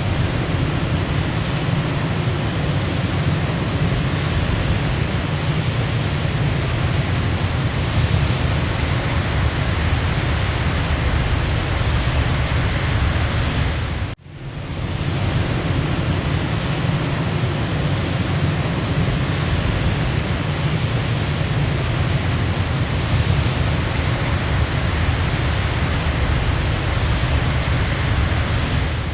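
Waterfall, a steady, full rushing of falling water. About halfway through it cuts out for a moment and swells back in, the seam of a looped recording.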